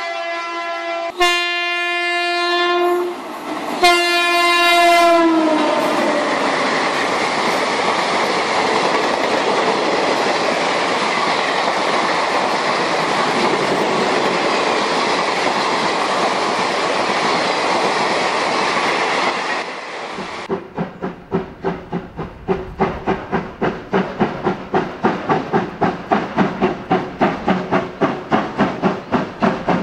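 Toy train sound effects: a horn sounds three times, then a steady hiss for about fifteen seconds. From about twenty seconds in, a rhythmic chugging at about two beats a second grows louder.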